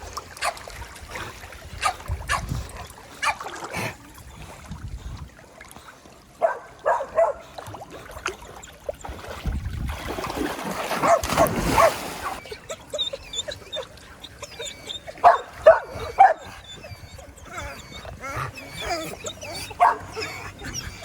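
Dogs barking and yipping excitedly in short, repeated calls, with whimpering between them. About ten seconds in comes a couple of seconds of splashing water.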